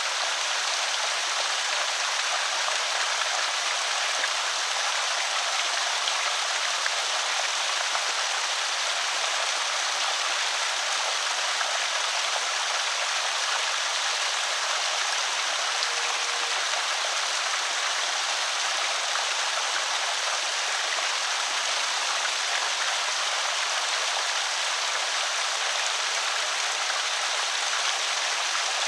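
Water pouring steadily over a small creek spillway, an even splashing hiss with no change in level.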